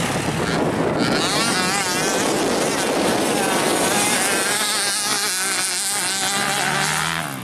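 Motocross bike engine running and revving up and down, its pitch wavering, with wind buffeting the microphone.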